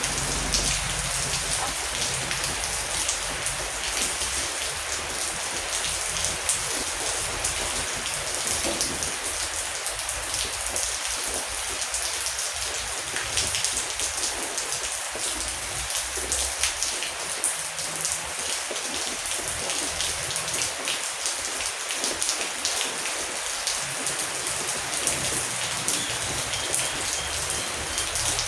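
Heavy rain falling steadily, a dense hiss full of sharp individual drop hits. A faint low rumble comes and goes beneath it.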